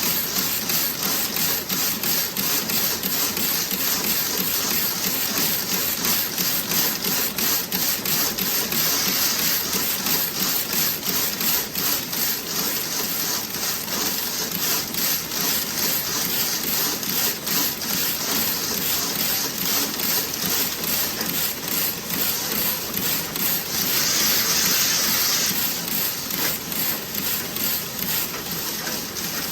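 Toe-sock knitting machine running, a fast, steady clatter of rapid mechanical ticks, with a brief hiss rising over it for a second or two near the end.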